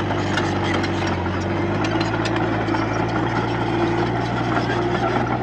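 Diesel engine of a Komatsu D31P bulldozer running steadily.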